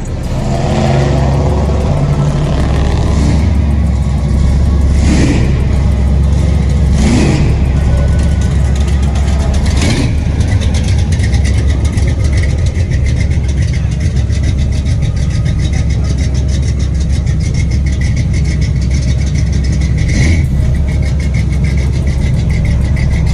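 A car engine running loudly with a heavy, steady low rumble and a few short swells in level.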